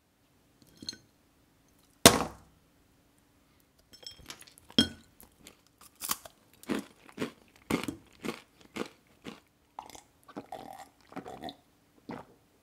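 Crunchy peanut candy being bitten and chewed: a single sharp crack about two seconds in, then a run of crisp crunches, roughly two a second.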